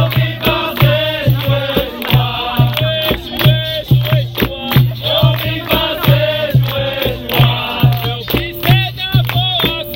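Capoeira roda music: berimbaus with rattles and percussion keep a steady, even rhythm, under group chanting.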